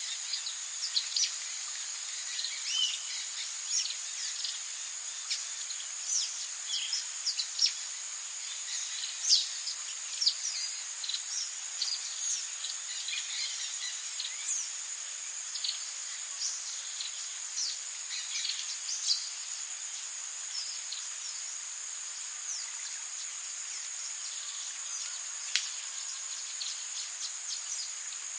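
Tropical rainforest ambience: a steady high-pitched insect drone over an even hiss of rain, with many quick falling bird chirps and calls scattered through it that thin out near the end.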